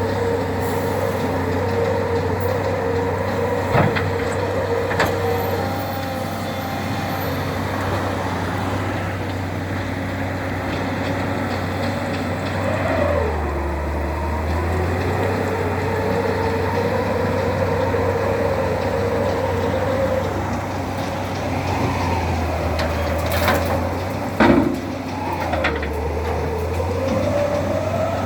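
Tractor shovel loader's engine running steadily with a whine whose pitch sags and recovers twice. A few sharp knocks are heard, the loudest near the end.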